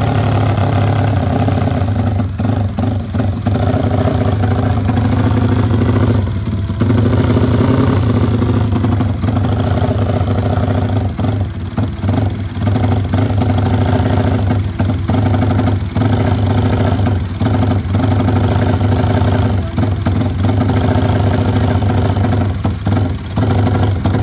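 Race-built Yamaha Vixion single-cylinder four-stroke engine running steadily at a loud idle, with short, uneven dips in its note.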